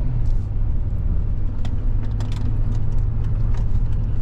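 Car driving at speed, heard from inside the cabin: a steady low engine and road drone, with a few faint clicks.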